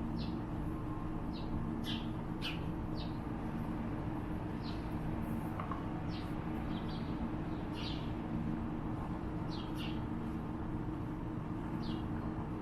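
Birds chirping in short, high notes, a dozen or so scattered through, over a steady low hum.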